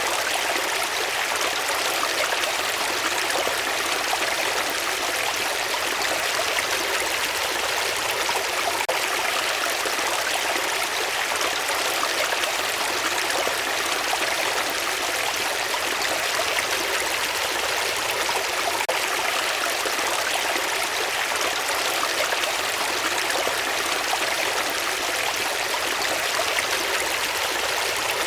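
A stream of running water flowing steadily, an even rushing that holds the same level throughout.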